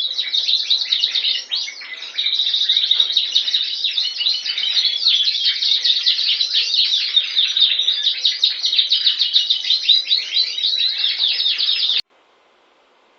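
Canary singing a fast, unbroken song of rapid chirps and trills that cuts off abruptly about a second before the end, leaving only faint hiss.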